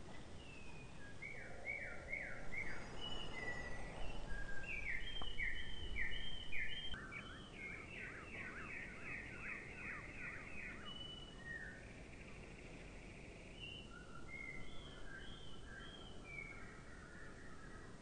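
Songbirds singing: runs of quick repeated chirping notes, about three or four a second, most active in the first half and then sparser, over a low, steady background rumble.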